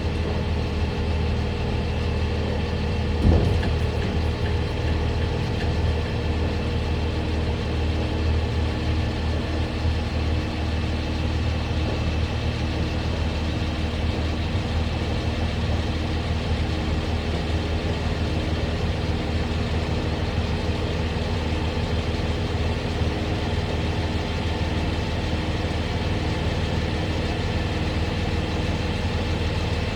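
Catering truck's engine running steadily with the PTO engaged, driving the hydraulics that lower the lift box. A single knock about three seconds in.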